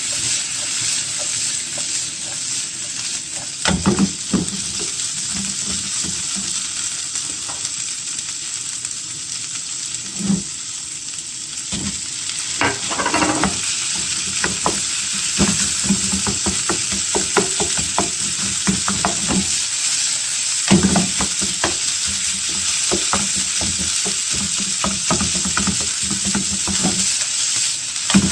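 Fried-rice ingredients sizzling in a hot frying pan as they are stir-fried, with a steady sizzle and repeated scrapes and taps of the spatula against the pan.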